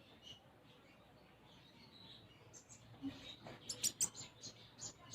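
Brown-throated sunbird (kolibri ninja) singing a song laced with house-sparrow-like chirps. A few faint high chirps come first, then a quick run of sharp, loud high chirps in the second half.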